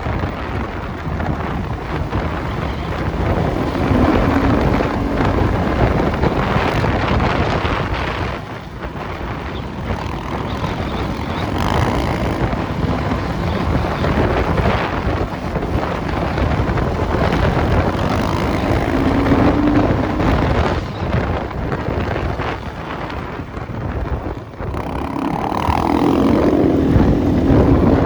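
Enduro motorcycle engine running while being ridden off-road, the throttle opening and closing so the sound swells and eases every few seconds, with wind buffeting the microphone.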